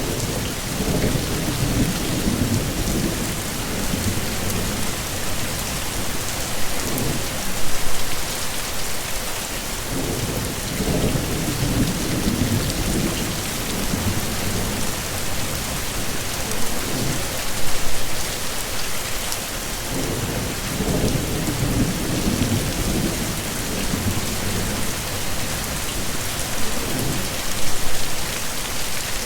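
Heavy rain pouring steadily, with low rolling rumbles of thunder swelling up about every ten seconds. Three short louder moments come at about the same spacing.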